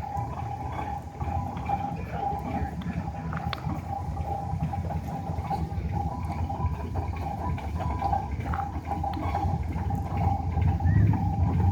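Steam traction engine running, with a steady tone over a low rumble that grows louder near the end and a few light clicks.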